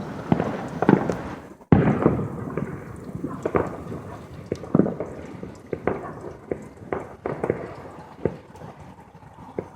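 Fireworks going off: a string of sharp bangs, each trailed by a rumbling echo. They are loudest and most frequent in the first two seconds and grow sparser and fainter toward the end.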